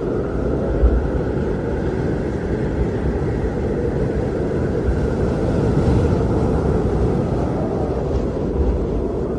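Blizzard wind blowing steadily as a low rumble, with a gust swelling about six seconds in.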